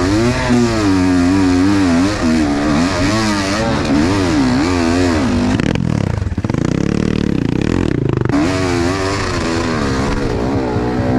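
Enduro motorcycle engine revving up and down in quick succession, as when picking a way over rough ground. About six seconds in it falls to a lower, rougher note for about two seconds, then revs again.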